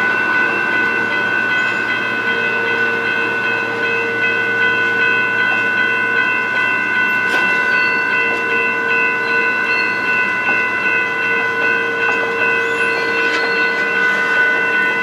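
Stainless-steel passenger cars of a slow-moving train rolling past, with a steady high-pitched whine of several held tones throughout and a few faint clicks.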